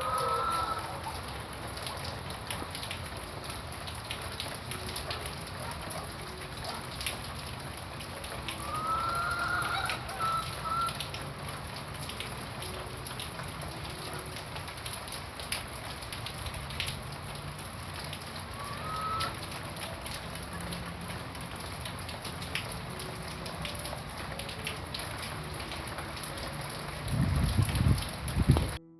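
Steady heavy rain falling, with a few short bird calls, and a louder low rumble near the end.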